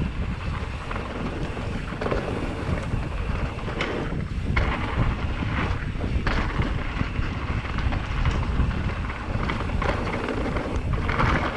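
Wind buffeting a GoPro microphone while riding a 2019 Commencal Meta TR 29 mountain bike down a dirt trail, with a steady low rumble of tyres over the ground and a few short knocks and rattles from the bike over rocks.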